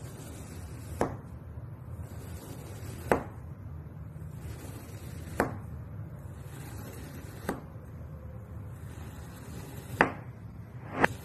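Knife blade pressed down through a block of soap, each cut ending in a crisp chop as the blade meets the board: six cuts about two seconds apart, the last two loudest and close together, over a low steady hum.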